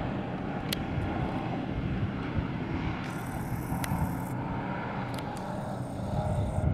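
SUV driving on a rough dirt trail: a steady low rumble of engine and tyres on gravel, with a few sharp ticks.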